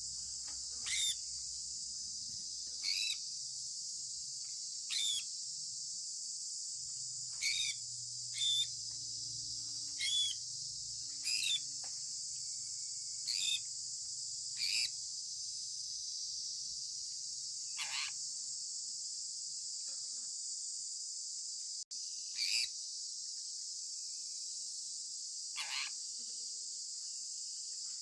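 Sun conure giving about a dozen short chirps, each sliding down in pitch, spaced one to three seconds apart with a longer pause past the middle, over a steady high hiss.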